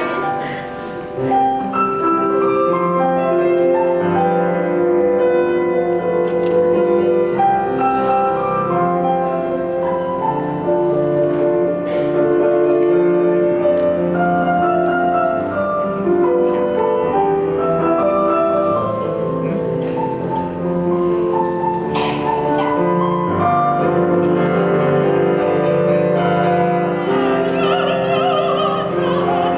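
Piano accompaniment with singing, a melody of held notes. Near the end a higher voice with vibrato comes in.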